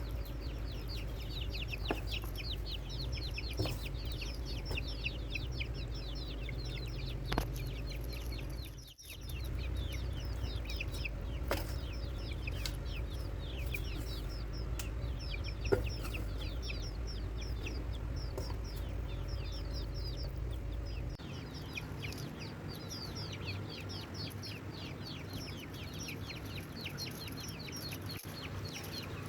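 Birds chirping in a rapid, continuous stream of short high downward notes, over a low rumble that stops about two-thirds of the way in. A few sharp clicks sound now and then.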